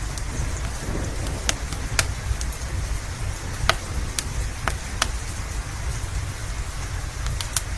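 Steady rain with a low rumble beneath it, and a wood fire crackling on top: sharp pops at irregular intervals, about one a second, two close together near the end.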